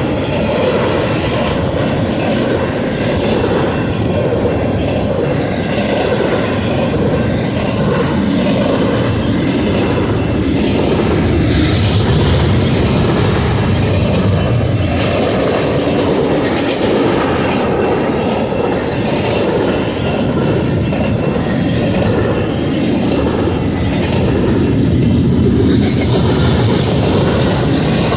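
Union Pacific intermodal freight train rolling past, a steady loud noise of its wheels running over the rails.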